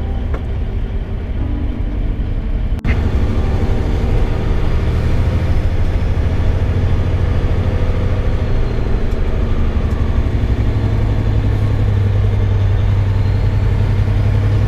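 A vehicle driving, its engine and road noise heard from inside the cab as a steady low drone with a hum that grows stronger in the second half. The first few seconds hold the tail of background music, which cuts off about three seconds in.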